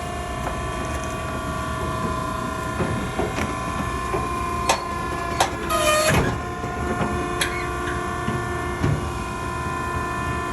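Maren cardboard baler running with a steady motor hum, with a few sharp knocks and a brief squeal about halfway through as cardboard is fed in.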